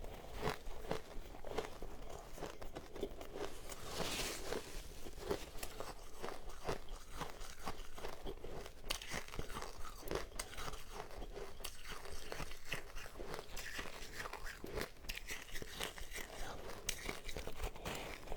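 Close-miked crunching and chewing of powdery ice, a dense run of small crackling crunches.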